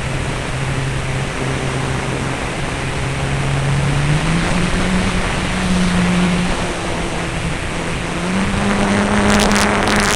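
Radio-controlled F3A aerobatic model airplane's motor running under a steady rush of air noise, its pitch stepping up twice as the throttle is opened. Crackling bursts come in near the end.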